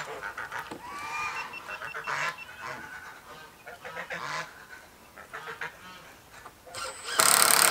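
Domestic waterfowl calling repeatedly with short calls, then a loud burst of noise lasting under a second near the end.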